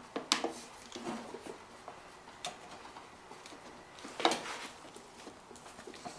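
Metal clicks and knocks of hose clamp pliers working the spring clamps on a lawn mower's fuel line, with two sharp clicks, one just after the start and one about four seconds in, between smaller handling sounds.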